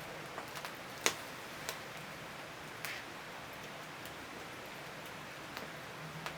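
Firewood crackling in a traditional Korean agungi firebox: irregular sharp pops over a steady hiss, the loudest about a second in.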